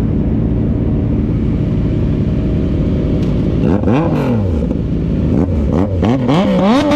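Motorcycle engine running under a steady rush of road and wind noise, then revved up and down once about four seconds in and several more times in quick succession near the end.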